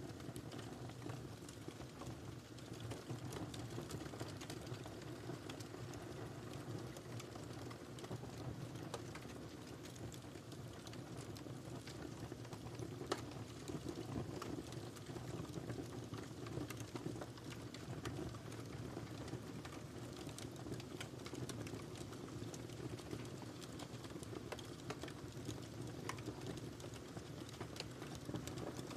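Wood fire crackling steadily, with many small pops and one sharper pop about halfway through.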